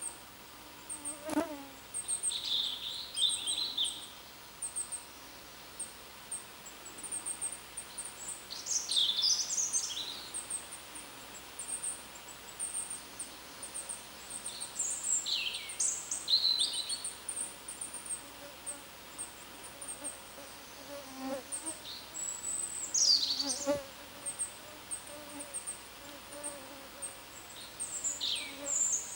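Small songbirds calling: a long run of very high, thin chirps throughout, with several short falling whistled phrases on top. A faint insect buzz comes and goes in the background.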